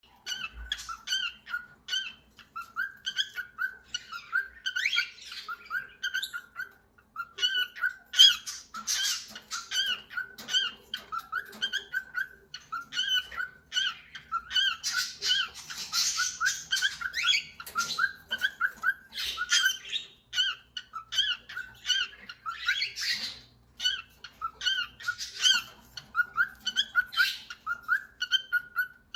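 Cockatiel whistling a tune over and over, a quick run of short, clear notes, with harsh squawks breaking in now and then.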